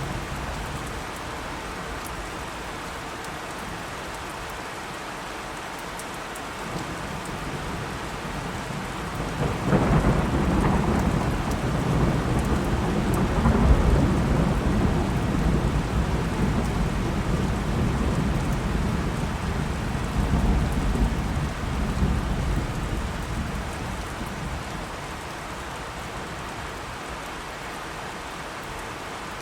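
Steady rain falling, with a long roll of thunder that swells about ten seconds in, rumbles for some fifteen seconds and fades back into the rain.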